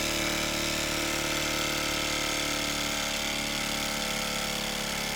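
Mamod SP6 miniature stationary steam engine with a dual-action cylinder running steadily and fast on a gas burner turned up high, close to running away.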